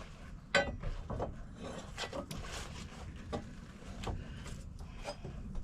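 Wooden deck boards being handled, with a handful of irregular knocks and some scraping; the loudest knock comes about half a second in.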